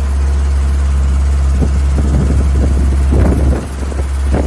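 Loud, steady low rumble of a moving vehicle's engine during a ride, with faint voices about halfway through.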